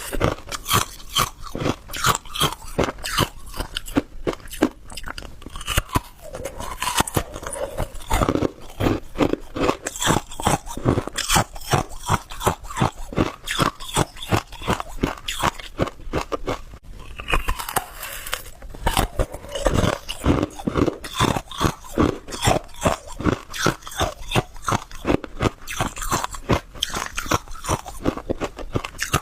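Hard ice being bitten and chewed close to the microphone: a steady run of sharp, crisp crunches, several a second.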